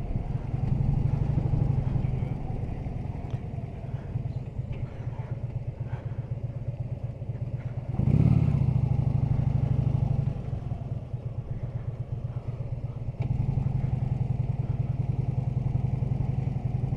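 Harley-Davidson V-twin motorcycle engine running under way with a steady low rumble. It grows louder with a short rise in pitch about eight seconds in as the throttle opens, eases off about two seconds later, and opens up again about thirteen seconds in.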